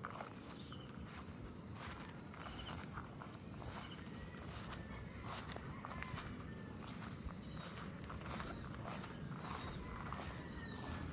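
Insects trilling steadily at a high pitch, with scattered light clicks and scuffs throughout.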